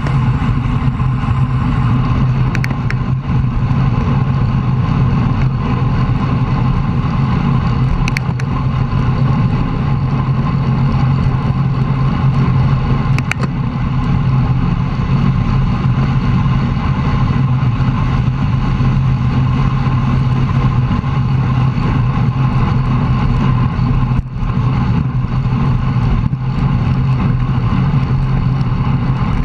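Steady wind and road noise buffeting a bicycle-mounted camera's microphone at riding speed, a constant low rumble, with a few faint ticks.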